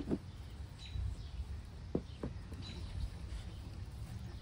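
Two short bird chirps over a steady low outdoor rumble, with three soft knocks: one at the start and two close together about two seconds in.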